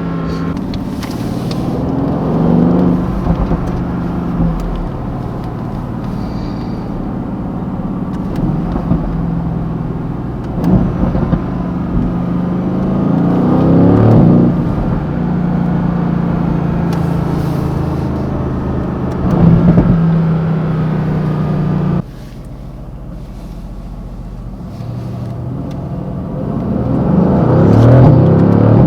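Mercedes-AMG GT C's twin-turbo V8 driving, pulling hard several times with the engine note rising and stepping through gear changes, settling to a steady drone in between. About two-thirds of the way through the sound drops off abruptly and then builds into another rising pull near the end.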